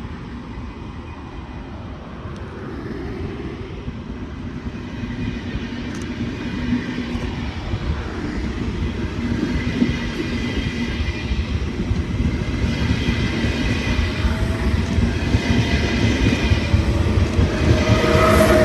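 A train approaching along the track, its rumble growing steadily louder throughout, with a few steady higher tones coming up near the end.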